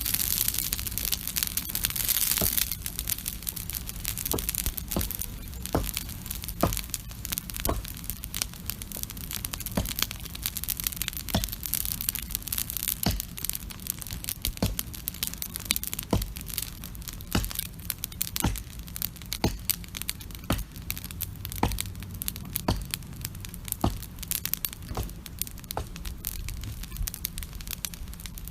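Wood campfire burning, with sharp irregular crackles and pops. A loud hissing crackle fills the first two seconds or so, like burning pine needles flaring up. A steady low rumble runs underneath.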